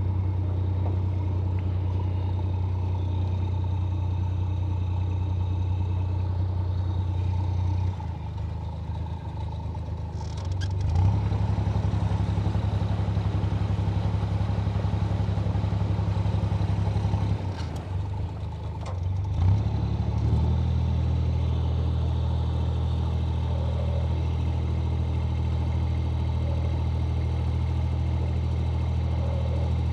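Narrowboat's inboard diesel engine running steadily, easing off around 8 s and 17.5 s and picking up again with a clunk around 11 s and 20 s as the gears are shifted between forward, neutral and reverse to turn the boat.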